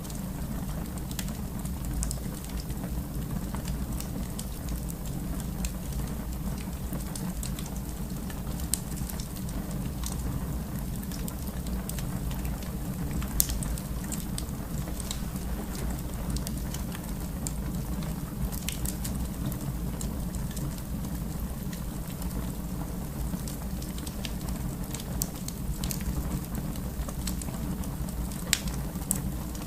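Fire burning in a fireplace: a steady low rush of flame with scattered sharp crackles and pops.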